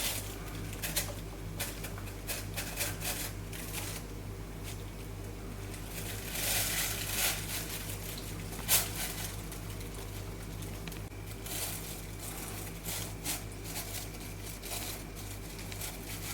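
Clear plastic bag rustling and crinkling as soft bee fondant dough is packed into it by hand, with scattered small handling knocks, a longer rustle about six seconds in and a sharp click about nine seconds in, over a steady low hum.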